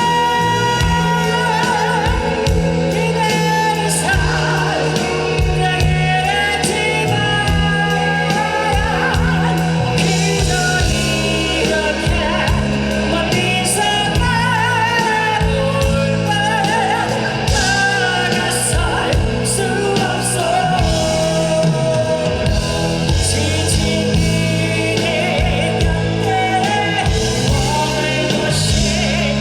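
Live rock band music: drums and bass under a sustained lead melody line with vibrato, with singing.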